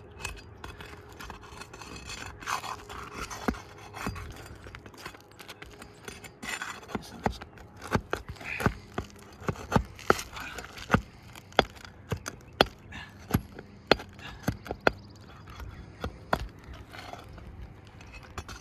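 A pry tool scraping and working under asphalt roof shingles to break their seal and pull the nails. Partway in comes a run of sharp clicks or taps, about one to two a second, that stops again before the end.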